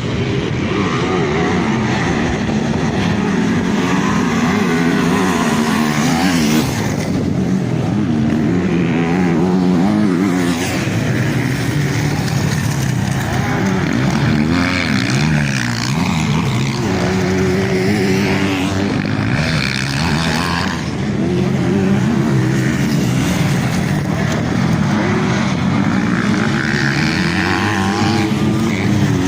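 Several motocross bikes racing, their engines revving up and falling back over and over as they accelerate and shift, overlapping without a break.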